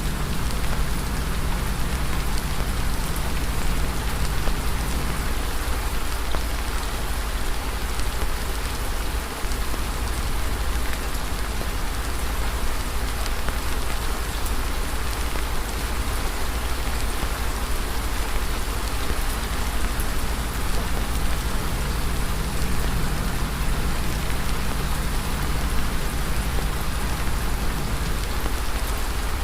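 Campfire ambience: a steady, dense crackling of burning wood over a low rumble.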